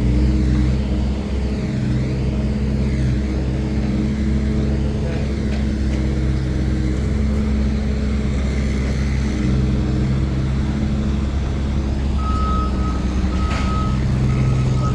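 Heavy construction machine's diesel engine running steadily at low revs. Near the end a reversing alarm starts beeping, a single high tone repeating about once or twice a second.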